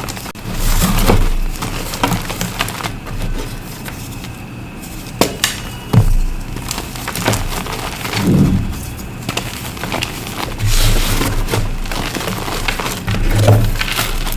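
Reformed blocks of dusty gym chalk being crushed, crunching and crumbling, with a couple of sharp cracks near the middle.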